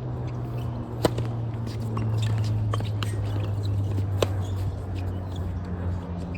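Tennis rally: a racket striking the ball with sharp pops, the loudest about a second in and again about three seconds later, with lighter ball bounces between, over a steady low hum.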